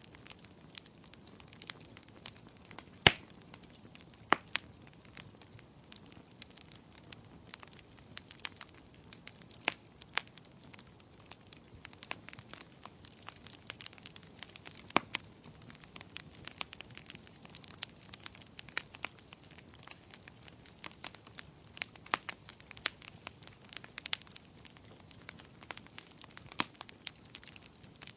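Fireplace fire crackling: irregular sharp pops and snaps over a soft steady hiss, with one louder pop about three seconds in.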